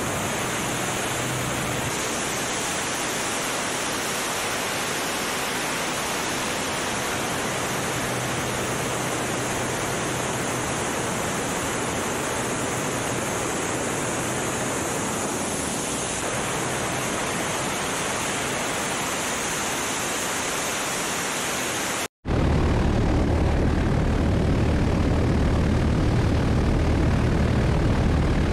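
Steady rushing wind noise over the microphone, with a propeller aircraft engine faintly beneath it. After a brief dropout about three-quarters of the way through, the engine's steady drone comes in much louder.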